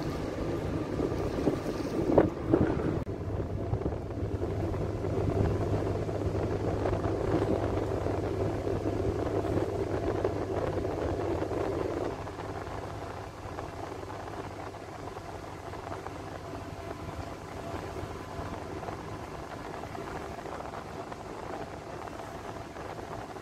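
A ship's engine running with a steady low hum while wind blows on the microphone during berthing, with a sharp knock about two seconds in; the sound drops in level about twelve seconds in.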